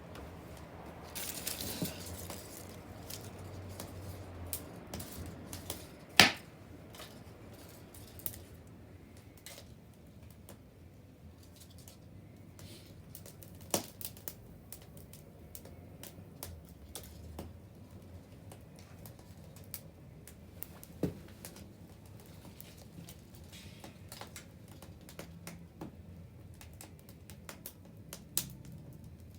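Wood bonfire crackling with irregular sharp pops, the loudest about six seconds in, and a short hissing stretch about a second in.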